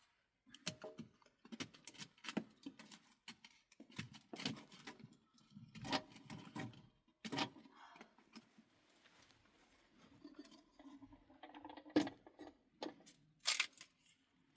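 Irregular clicks, knocks and clatter of small objects being handled, with a louder knock about twelve seconds in and another just before the end.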